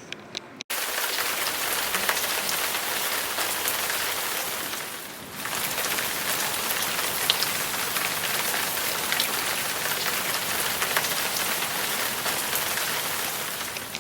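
Steady rain falling, a dense hiss of drops that eases briefly about five seconds in.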